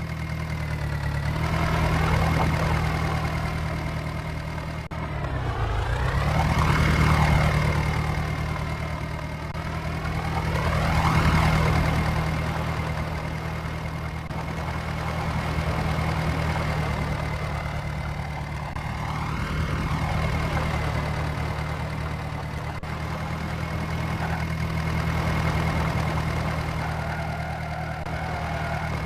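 Diesel tractor engine running steadily, its sound swelling and fading every few seconds, with a thin steady high whine over it.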